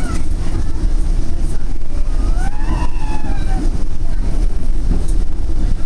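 Steady low rumble of a Northstar commuter train coach running along the line, heard from inside the car. A passenger's voice is heard faintly about two to three seconds in.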